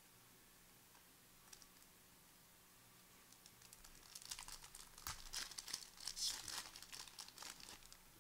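A trading card pack wrapper being torn open and crinkled, a rapid crackling rustle that starts about halfway through and is loudest near the end, after a couple of faint clicks.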